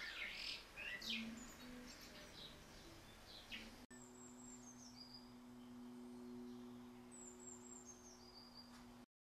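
Faint birdsong: short chirps and whistles as the last notes of a guitar song fade out. After a sudden cut come two runs of high, thin, descending whistled notes over a low steady hum.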